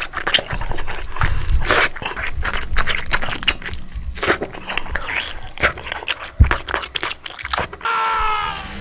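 Close-up eating sounds of grilled pig's intestines being bitten and chewed: a dense run of irregular wet clicks and crunches. Near the end a short pitched sound, falling slightly in pitch.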